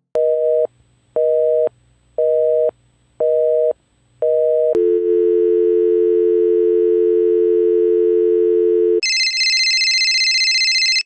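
Telephone line tones from a sound-effect library. First a busy signal of five short two-tone beeps about a second apart, then a steady dial tone for about four seconds. About nine seconds in, it switches abruptly to a higher steady electronic tone.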